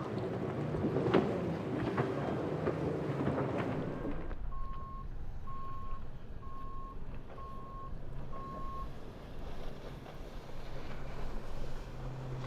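Motorboat engine running amid wind and water noise, with scattered clicks and knocks, cutting off abruptly about four seconds in. Five short electronic beeps follow, about one a second, then a faint low steady hum.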